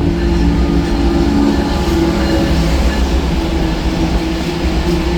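Diesel train running past at close range: a loud, steady mix of low engine drone and rail noise.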